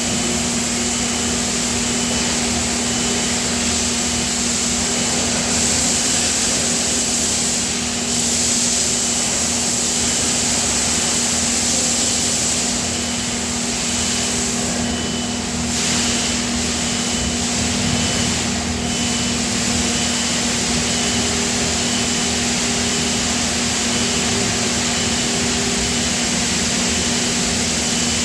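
Steady industrial machinery noise from die-casting plant equipment: a constant hum with a strong hiss over it, and a faint short beep repeating about once a second.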